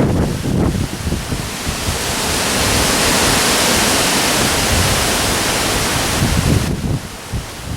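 Storm wind and heavy rain, with gusts buffeting the microphone. A strong hissing surge builds about a second and a half in, holds, and drops off sharply near the end.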